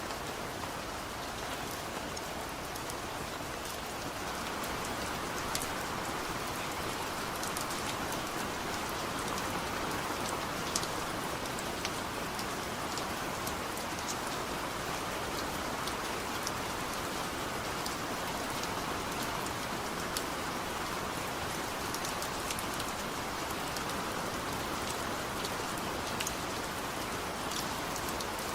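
Heavy rain falling steadily, a dense even hiss with the patter of individual drops hitting a surface, growing slightly louder a few seconds in.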